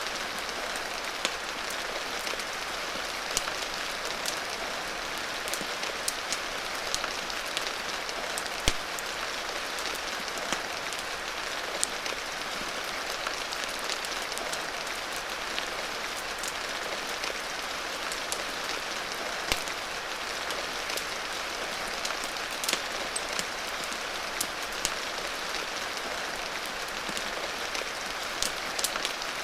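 Steady rain, mixed with a crackling fire that gives irregular sharp pops every second or so.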